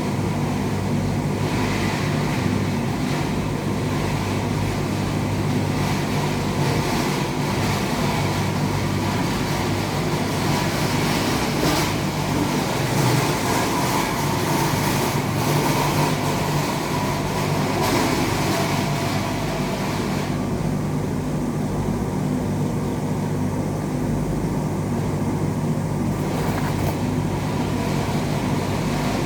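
Steady low electrical hum under a continuous hiss, with no clear events.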